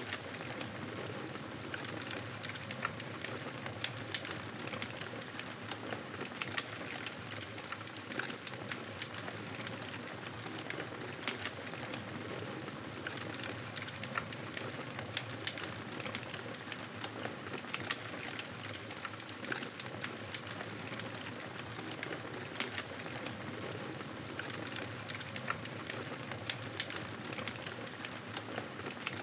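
Campfire burning steadily: a constant soft hiss of flame with frequent small sharp crackles and pops from the burning wood.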